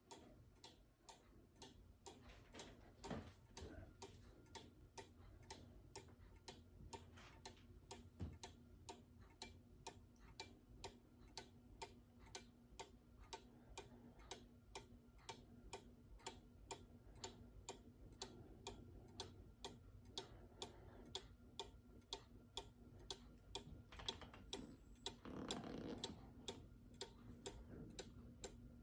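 Mechanical cuckoo clock with an 8-day Regula movement ticking steadily, about two ticks a second. A brief faint noise joins in near the end.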